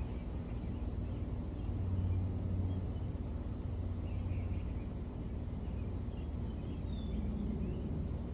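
Faint, scattered high bird chirps over a steady low rumble.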